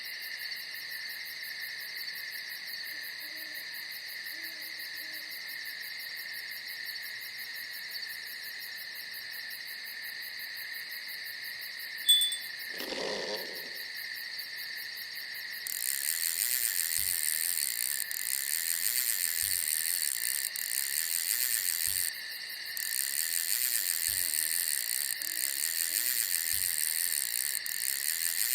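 Night insect chorus of crickets and other singing insects, a steady chirring. A faint owl hoots twice, early and again near the end. About halfway through, a second, higher and louder insect chorus starts up and pauses briefly a couple of times, and shortly before that a short noisy sound breaks in.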